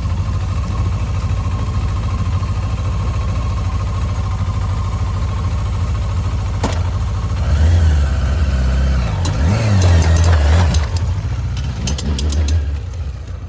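Suzuki GSX-R inline-four motorcycle engine idling steadily, then revved up and down several times from about halfway through before dropping back.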